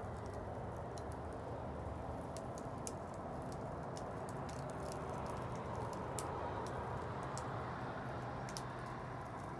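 Wood bonfire burning: a steady low rush of flame with irregular sharp crackles and pops from the burning wood.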